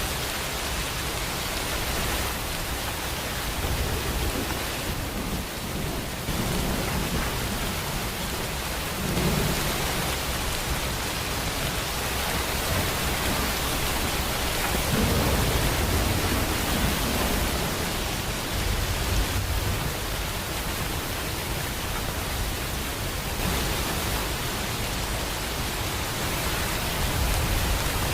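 Steady heavy rain falling, with low rumbles of thunder now and then.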